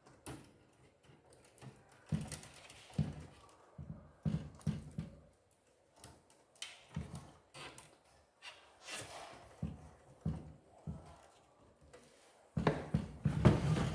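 Parts of a Canon LBP2900 laser printer being handled while it is taken apart to remove the fuser assembly: scattered plastic clicks and knocks, with a louder run of clattering near the end.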